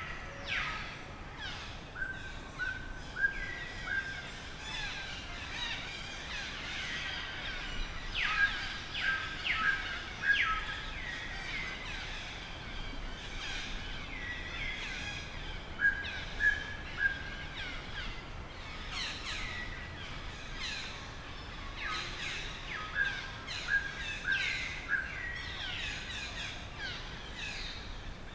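Birds chirping and calling outdoors. There are many short notes sliding downward and runs of quick, even-pitched notes, with louder bursts about eight to ten seconds in and again around sixteen seconds.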